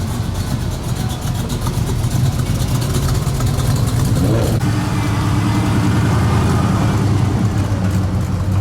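Car engine idling with a steady low hum, with a brief rise in pitch about halfway through.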